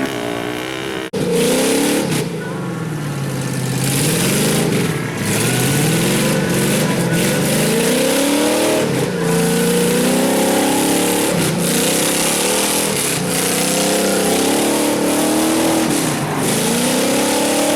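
Mud-bogging Jeep or truck engine revving hard and repeatedly, its pitch climbing and falling over and over as the driver works the throttle.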